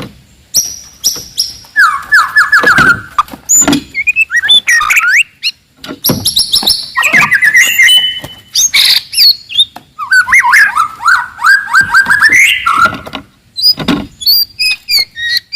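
White-rumped shama singing a loud, varied song. Its phrases of rapid trills and high whistles mix with sharp clicking notes, with short pauses between phrases.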